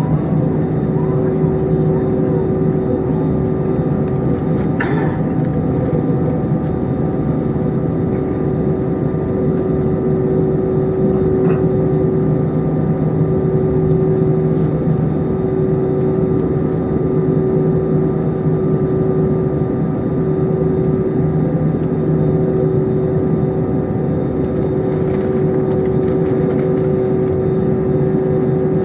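Airbus A320 cabin noise in flight: a steady drone of engines and airflow with a constant hum, and a brief click about five seconds in.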